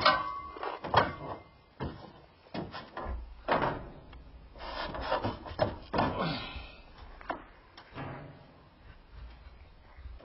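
Irregular knocks, clatter and scraping of chimney parts being handled while the top section of a stove chimney is fitted, with stretches of low rumble in between.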